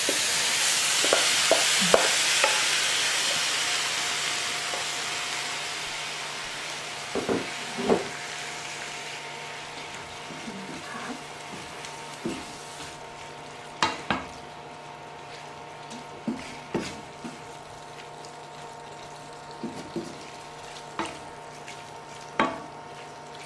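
Sauerkraut tipped into a hot frying pan of bacon and onion sizzles loudly, the sizzle fading away over about ten seconds. After that, a metal spatula stirring it knocks and scrapes against the pan now and then.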